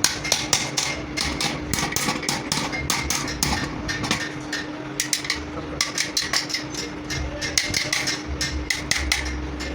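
A hand hammer tapping on metal workshop parts, many quick, irregular light blows, over a steady low hum.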